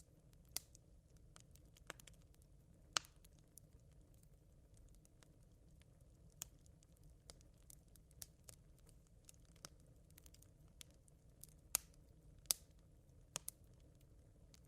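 Smouldering campfire embers crackling: sparse, irregular sharp pops and ticks, over a faint low rumble.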